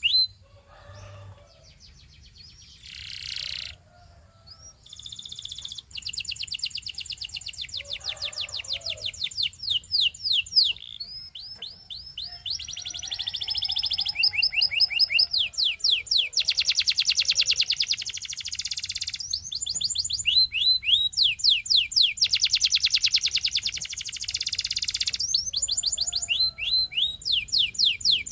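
Canary singing: long trills of rapidly repeated high notes, each a quick downward sweep, broken by short pauses. The first several seconds are quieter, with only a few faint notes before the trills start.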